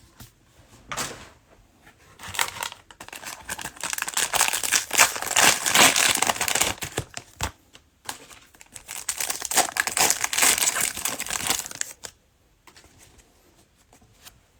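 Cellophane wrappers of trading-card cello packs crinkling and tearing as packs are ripped open by hand, in two long stretches, going quiet near the end.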